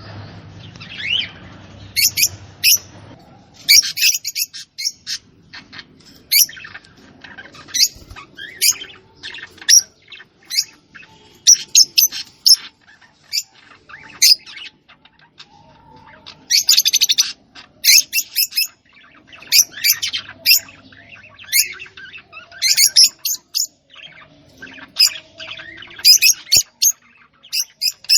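Small bird chirping and tweeting: many short, sharp, high-pitched calls in quick clusters, repeated over and over with brief gaps.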